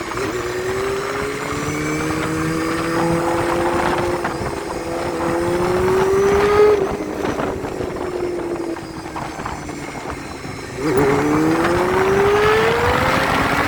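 Honda Hornet motorcycle with aftermarket twin mufflers accelerating, its engine pitch climbing steadily and getting louder, then dropping off about halfway through. Near the end it revs up sharply and climbs again.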